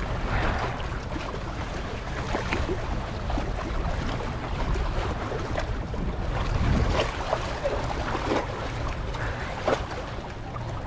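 Wind buffeting the microphone over water lapping and splashing against the rocks of a shallow shoreline, with scattered small splashes and clicks.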